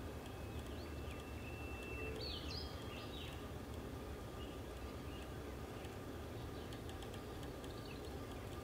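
Steady outdoor background noise with a few faint bird calls: a thin held whistle, then short chirps, between about half a second and three seconds in.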